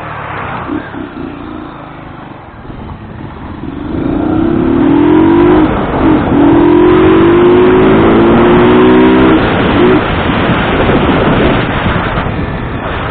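Motorcycle engine accelerating under load over a steady rush of wind and road noise. The engine note climbs from about four seconds in, breaks briefly near six seconds as at a gear change, then climbs again before easing off.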